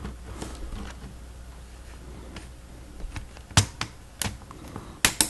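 Plastic Lego Technic pieces clicking as they are handled and pressed together: a few sharp clicks about three and a half seconds in and a quick cluster near the end.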